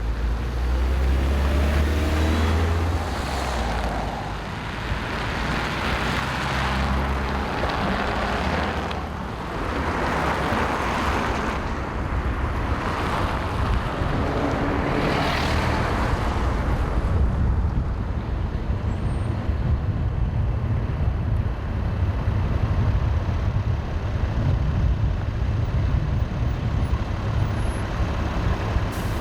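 Road traffic: a low engine rumble runs throughout, with several swells of passing-vehicle noise over the first half that rise and fade, then a steadier rumble.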